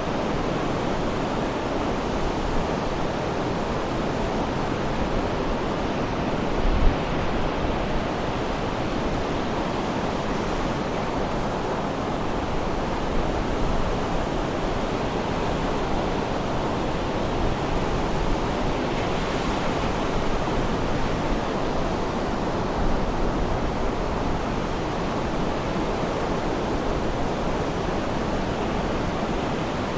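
Sea waves washing on the shore in a steady, even rush, with a short low bump about seven seconds in.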